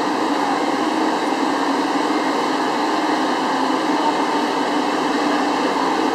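KTM Komuter electric train at the platform, giving a steady hum and hiss with no clear clanks or horn.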